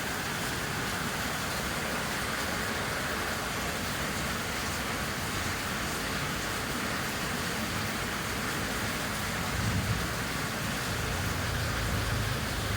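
Steady heavy rain, with a low rumble of thunder in the last few seconds.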